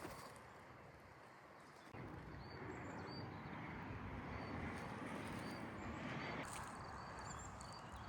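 Small bird chirping repeatedly in short high notes over a faint steady outdoor background noise, which grows suddenly louder about two seconds in.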